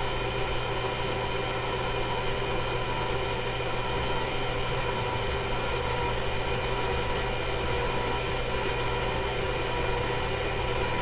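Electric mixer running steadily with a constant motor whine, mixing flour, salt and yeast for bread dough as the warm liquid is poured in.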